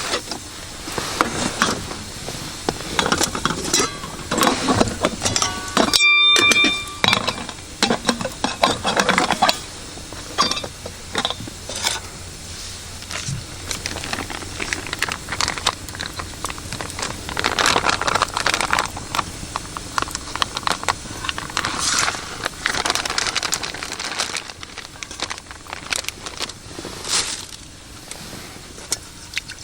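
Irregular handling noises: clicks, light clatter and rustling as objects are moved about, with a short steady tone about six seconds in.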